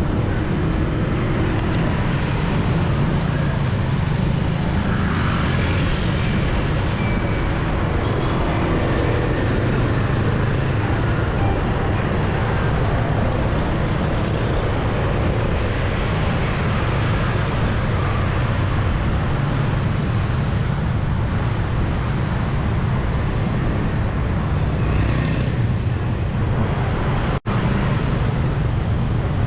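City street traffic heard from a bicycle: a steady mix of passing motorbikes and cars with a constant low rumble. The sound cuts out for an instant near the end.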